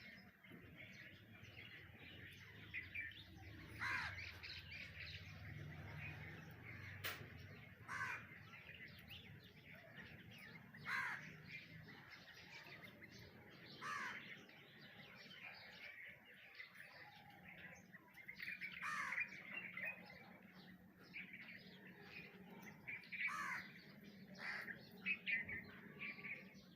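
Birds calling: a short falling call repeats every few seconds over steady chirping.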